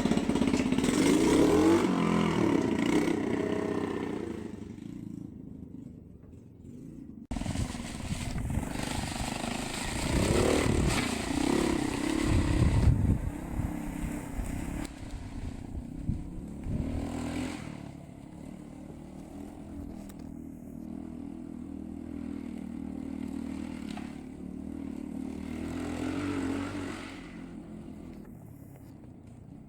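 Minibike's small Chinese Honda-clone four-stroke engine running as it is ridden, revving up and down, fading away and then coming back loud about seven seconds in.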